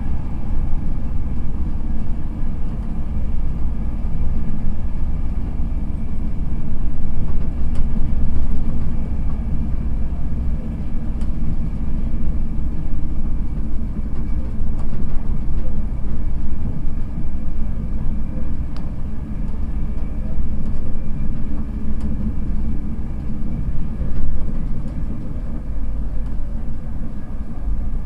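Inside the passenger coach of an East Coast Main Line express train running at speed: a steady, loud low rumble of wheels on rail and running noise.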